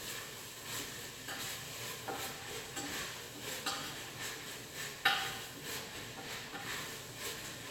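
Metal utensil clinking and scraping against a cooking pot while food is stirred, in scattered light knocks, with one louder clank about five seconds in.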